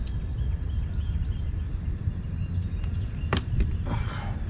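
Outdoor pond-side ambience: a steady low rumble of wind buffeting the microphone, with faint birdsong above it and a single sharp click about three seconds in.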